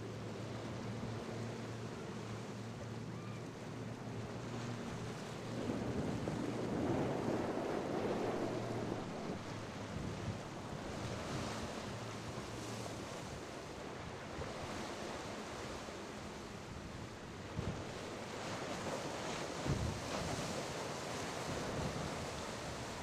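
A passing boat's engine hums steadily for the first several seconds, then drops away under the wash of waves breaking in the inlet. Wind buffets the microphone throughout.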